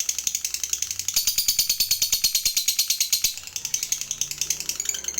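A lovebird giving its long 'ngekek' chatter: a fast, even, high-pitched rattling trill of about a dozen notes a second.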